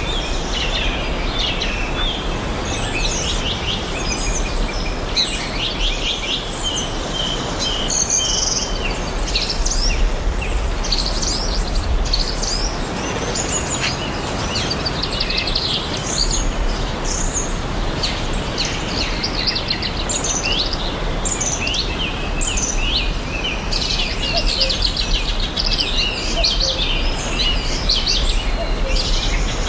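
Several songbirds chirping and trilling continuously over a steady, even background hiss with a low rumble.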